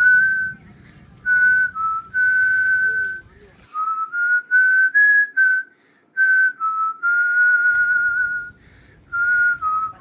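A person whistling a slow tune: a string of clear held notes that step up and down in pitch, in short phrases with brief pauses between them.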